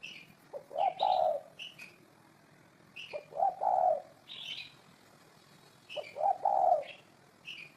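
Spotted dove cooing: three phrases about two and a half seconds apart, each a short note followed by longer ones. Short high chirps from another small bird come between the phrases.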